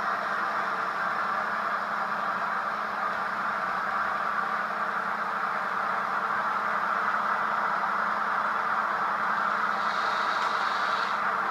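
Model trains running on a layout: a steady whirring of small motors and wheels on the track, with a brief high squeal near the end.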